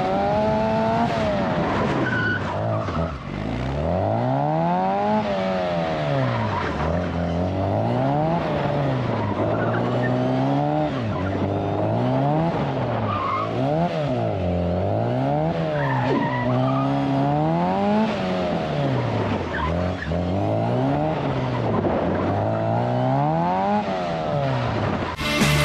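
Car engine revving up and falling back again and again as the car is driven hard through the tight turns of an autocross course, with short tyre squeals in between. Music comes in right at the end.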